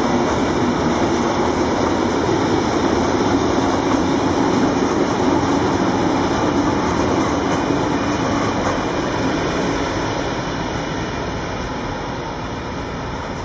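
Freight train of high-sided open wagons rolling past, its wheels running on the rails in a steady dense noise that fades away near the end as the last wagon goes by.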